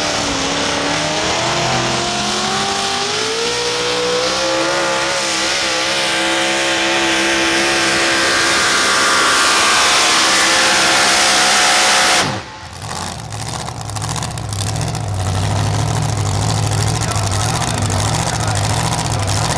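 Super modified four-wheel-drive pulling truck's engine at full throttle under load, its pitch climbing steadily for about twelve seconds. The sound then breaks off suddenly and a lower, steady engine note follows.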